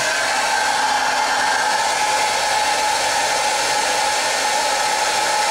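Electric hot-air blower running steadily with a constant whine, warming the rim of a freshly thrown clay lid to stiffen it so it doesn't flop.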